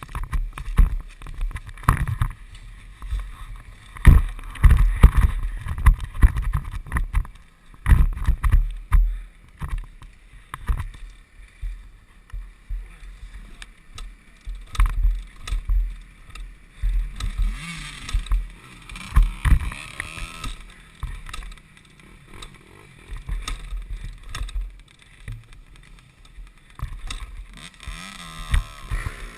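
KTM 250 SX-F dirt bike's single-cylinder four-stroke engine heard muffled through a mounted action camera while riding off-road, buried under irregular heavy low thumps and jolts from the bumpy ground and wind buffeting. The engine revs rise and fall audibly around the middle and again near the end.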